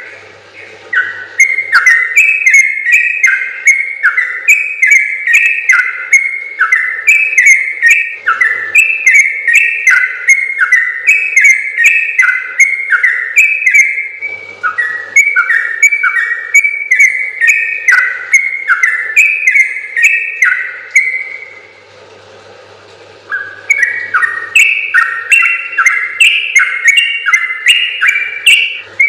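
Yellow-vented bulbul (trucukan) singing long, fast runs of bubbly whistled notes, with a brief break about a second in, another near the middle, and a longer pause around three-quarters of the way through.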